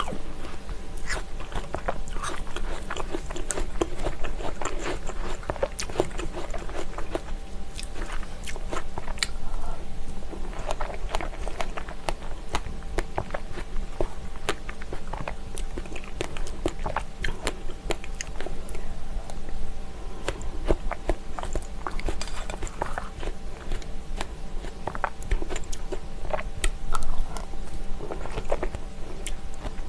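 Close-miked eating: chewing and biting fresh strawberries and apple pieces with plain yogurt, many small wet crunches and mouth clicks throughout.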